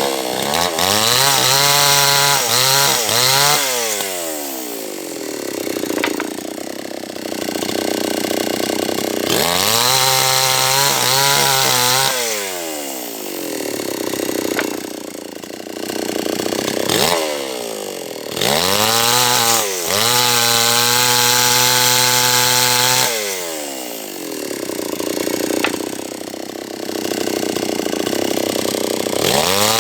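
Small two-stroke H&L Pro 5800 chainsaw cutting a large teak log. The engine revs up sharply and falls back about four times, and between the revs it runs lower and rougher as the chain works through the wood.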